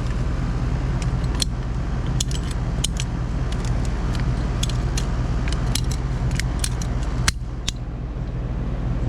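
Air conditioning equipment running with a steady low hum. Scattered sharp clicks and light metallic taps sound over it.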